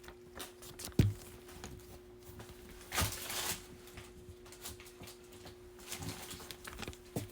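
Trading card packs and cards being handled on a table: a single thump about a second in, a brief rustle around three seconds in, and scattered light taps, over a faint steady hum.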